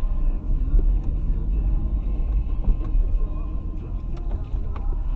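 Steady low rumble of a vehicle driving: engine and road noise, with a few faint clicks.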